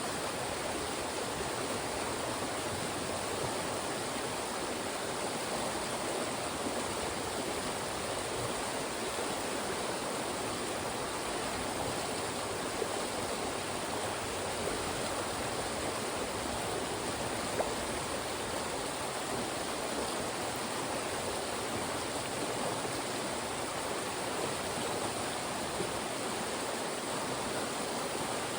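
Fast mountain stream rushing and splashing through funnels of rocks, a steady, even wash of water noise.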